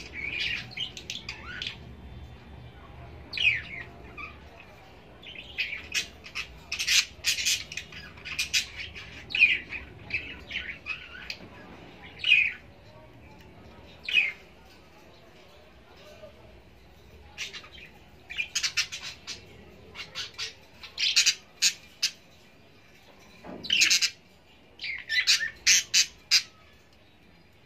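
Birds chirping and calling: short, sharp chirps and quick runs of notes in irregular clusters, some calls sliding down in pitch.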